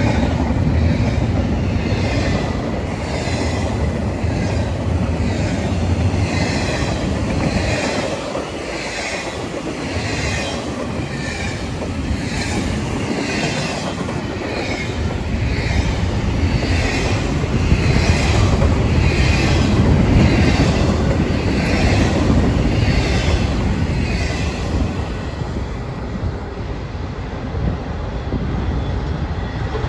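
Double-stack intermodal freight train rolling past close by: a heavy, continuous rumble of wheels on rail, with a regular pulsing hiss as car after car goes by. The sound swells about two-thirds of the way in and eases near the end as the train's tail moves away.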